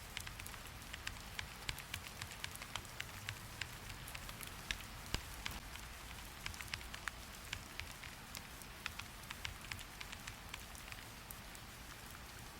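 Rain falling: a steady hiss with many irregular sharp ticks of drops striking a hard surface, several a second.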